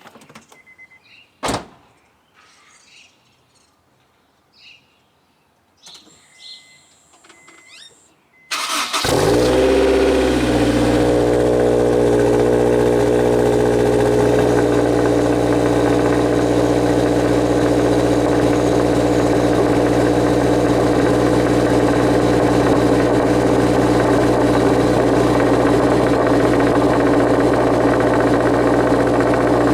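Honda S2000's four-cylinder engine, on an Invidia Q300 cat-back exhaust with a test pipe in place of the catalytic converter, cold-starting: after a sharp click and some faint small sounds it cranks and catches about eight and a half seconds in, flares, drops back within a second or two and settles into a steady cold idle. The exhaust rattles at cold start.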